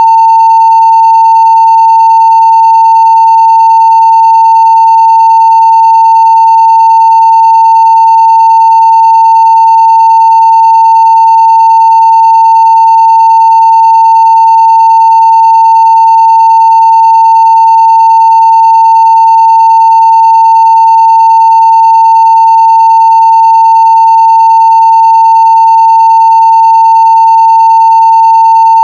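Continuous 900 Hz sine-wave test tone at full scale (0 dB), holding one steady pitch and level without a break.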